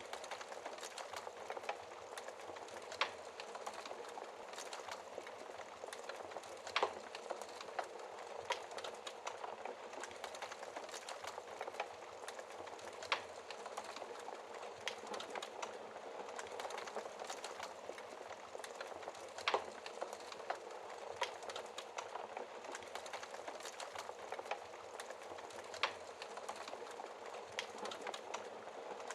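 Wood fire burning in a fireplace behind a glass door: a steady hiss with frequent small crackles and occasional sharper pops, the loudest about seven seconds in and again past the middle.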